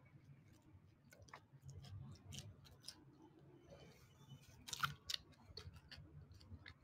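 Quiet eating sounds: soft chewing with scattered small clicks, and a few sharper clicks about five seconds in.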